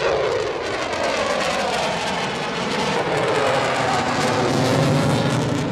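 Eurofighter Typhoon's twin jet engines in a loud fly-past: a dense roar with tones that sweep in pitch as it passes, easing slightly near the end.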